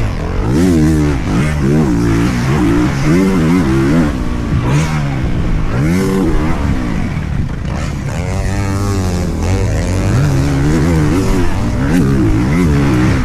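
Honda motocross bike engine revving hard and dropping off over and over, the pitch climbing and falling about once a second as the throttle is opened and chopped, with a longer pull near the middle.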